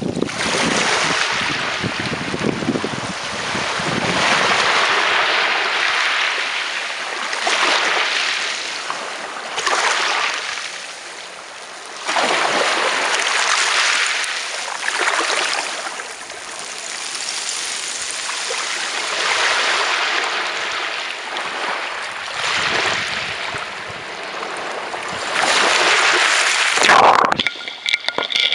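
Sea waves washing up on a beach: a steady hiss of surf that swells and falls back in surges every few seconds.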